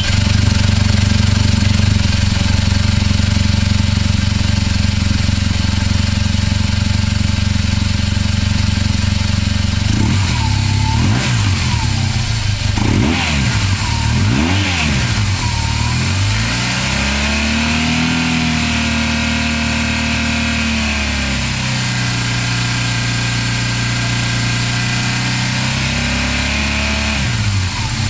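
2009 BMW R1200GS Adventure's boxer-twin engine idling steadily, then revved in several short throttle blips about ten seconds in. It is held at a raised speed for a few seconds, drops back to idle, and gets one more short rev near the end.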